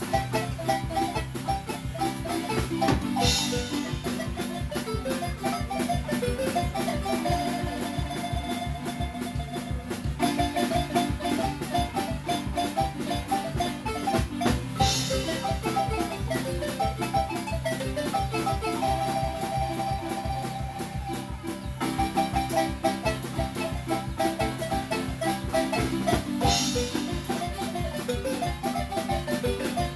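Acoustic marimba music: quick repeated and rolled melody notes over a steady bass line, with a brighter accent that comes back about every twelve seconds as the phrase repeats.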